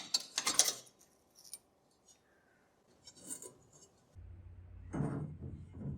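Small metal parts being handled: a quick run of sharp clinks and scrapes at the start and another clink about three seconds in. A low hum begins about four seconds in, with two louder handling noises on top of it.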